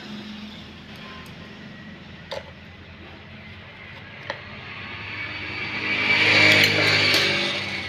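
A motor vehicle passing by, swelling to its loudest just past the middle and fading away near the end. Two short clicks sound earlier.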